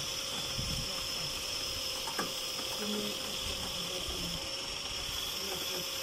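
Steady outdoor background hiss, with a single faint click about two seconds in and a couple of short low notes around three seconds.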